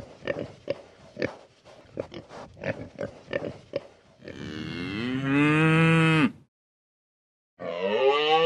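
Pigs grunting in short, quick calls, then a cow mooing in one long call. After a brief gap of silence, a second moo starts near the end.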